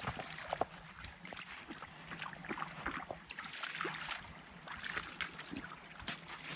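Footsteps squelching and splashing on a wet, muddy woodland trail, an irregular run of crunches and small splashes.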